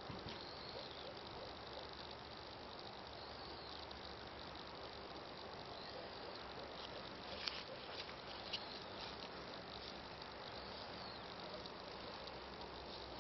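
Faint insect chirping over a steady outdoor hiss, with two short clicks a little past halfway.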